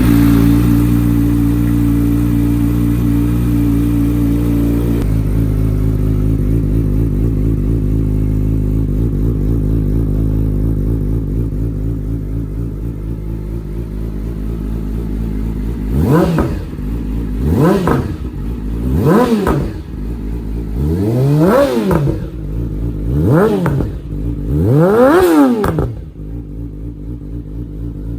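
Yamaha R6 inline-four engine running through an Akrapovic full exhaust, idling high just after starting and settling to a lower idle about five seconds in. Later it is blipped six times in quick succession, each rev rising and falling sharply, the last ones the highest and loudest.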